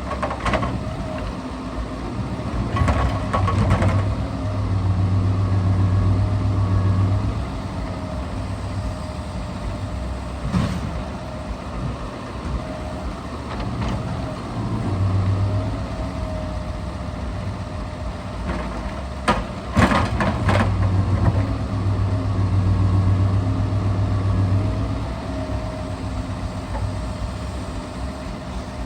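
Scania R650 timber truck's V8 engine running, rising in speed for a few seconds at a time as it drives the Epsilon loader crane's hydraulics. Sharp knocks and clatters of timber being handled come several times, a pair close together about two-thirds of the way in.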